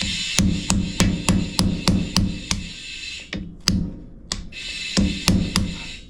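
Hammer strikes knocking adhesive wheel weights off the side of an aluminum wheel rim: a steady run of sharp blows about three a second, a pause with two single strikes, then another quick run of four near the end.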